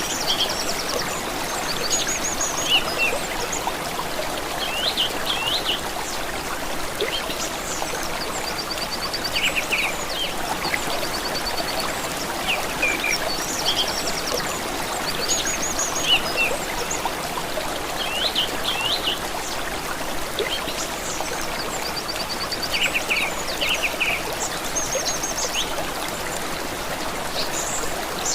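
A small stream trickling and running steadily, with songbirds calling over it every few seconds: short rapid trills high up and quick runs of three or four chirps.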